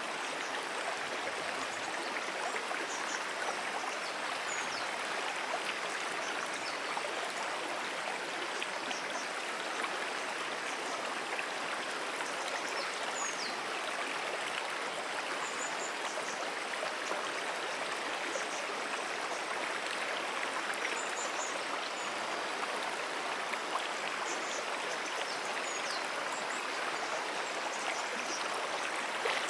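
Freshwater brook flowing steadily, a constant even rush of running water.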